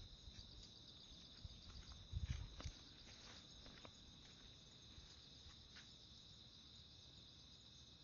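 Insects chirring in a steady, continuous high trill, with a brief low thump about two seconds in.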